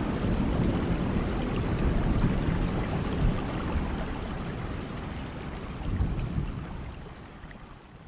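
Steady rain with a low rumble of thunder, fading out over the last couple of seconds.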